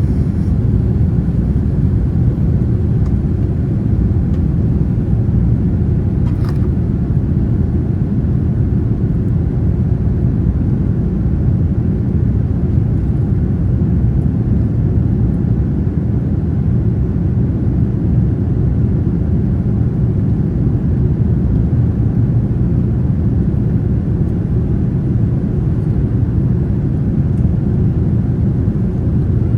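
Steady low rumble of a Boeing 787-9 Dreamliner's jet engines and rushing air, holding the same pitch and level throughout.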